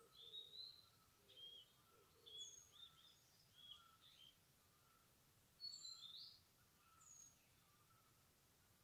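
Faint birdsong in the woods: several short, high chirps and whistled notes from small birds, scattered through, over a fainter, lower note that repeats about once a second.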